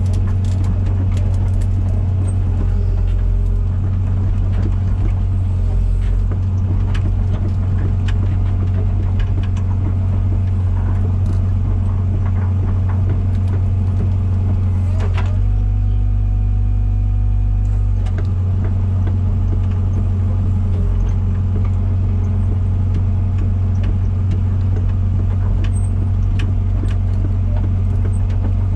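Komatsu PC120-6 excavator's diesel engine running steadily and loudly, with scattered clicks and knocks from the machine as it works. About fifteen seconds in, the engine's note changes for roughly three seconds, then returns.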